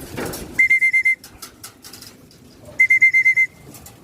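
A trilling whistle blown twice in short bursts, about half a second each, on one steady high pitch. It is the fancier's whistle calling racing pigeons in to feed.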